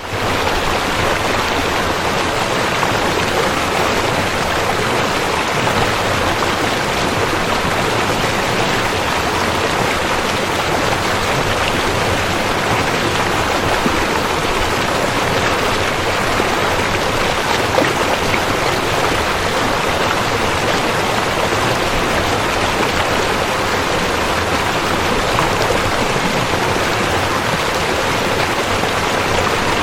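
River water rushing and splashing in a steady, unbroken flow. It comes in right at the start after a brief silence.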